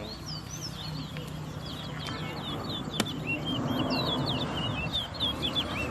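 Towa-towa (chestnut-bellied seed-finch) singing a rapid, continuous stream of short whistled notes in a song race. A murmur of voices sits under it, and there is a sharp click about three seconds in.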